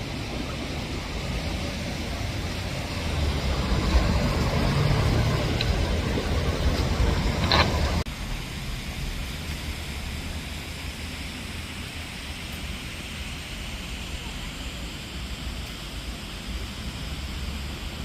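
Traffic noise from a road: a vehicle passes, swelling over the first few seconds with a low rumble, then a sharp click. After an abrupt change, quieter steady traffic hiss continues.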